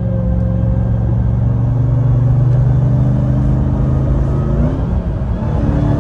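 Ram TRX's supercharged 6.2-litre V8 pulling under load with a trailer behind, heard from inside the cab: the engine note rises slowly, then drops about five seconds in.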